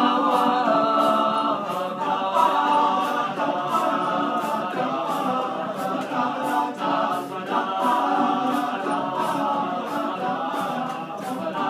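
A cappella vocal group singing a wordless passage in several-part harmony, with a steady beat running under the voices.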